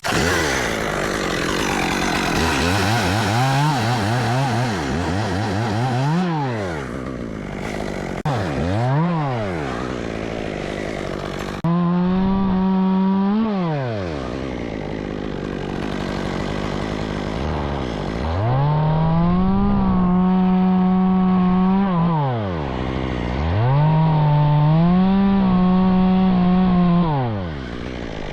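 Stihl two-stroke chainsaw revving repeatedly from idle to full throttle. It holds full speed for a few seconds at a time, with a couple of quick throttle blips early on, and drops back toward idle between runs.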